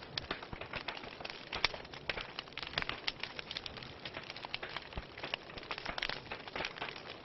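Wood fire burning in a fireplace, crackling with many irregular pops and snaps of varying loudness over a steady hiss.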